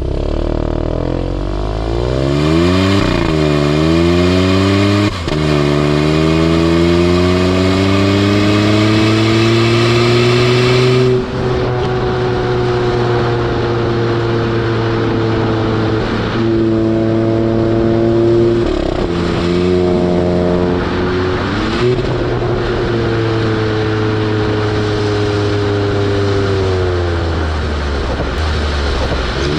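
Hyundai i20 N Line's 1.0-litre turbo-petrol three-cylinder engine and sport exhaust, pulling hard with the pitch climbing. Quick upshifts of the dual-clutch gearbox cut it back about five and eleven seconds in, followed by more running with further gear changes.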